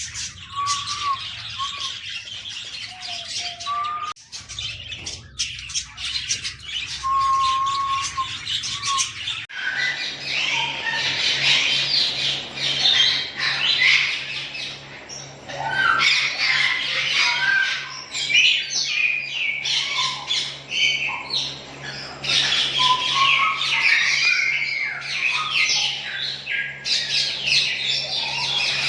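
Ringneck parakeets squawking and chirping, many short calls overlapping. The calling gets much busier after about ten seconds, and a steady low hum comes in underneath at the same moment.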